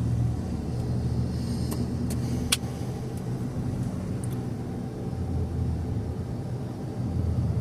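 Car driving along: steady engine and road rumble heard from inside the cabin, with a single sharp click about two and a half seconds in.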